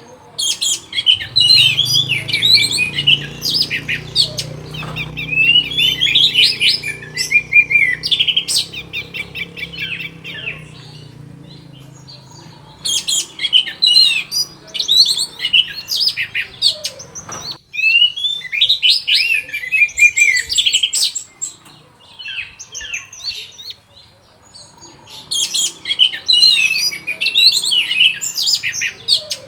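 Orange-headed thrush (anis merah) singing in long, rapid, varied phrases of whistles and chattering notes. There are four bursts of song with short pauses between them. A low hum runs underneath for the first half or so and stops abruptly.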